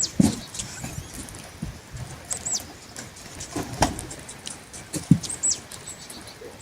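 Small birds chirping with short, high, down-slurred calls a few times, over scattered knocks and thumps.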